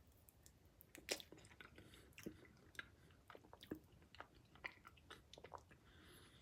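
Faint mouth sounds of a person eating a spoonful of cinnamon roll Blizzard ice cream: scattered quiet smacks and clicks of chewing.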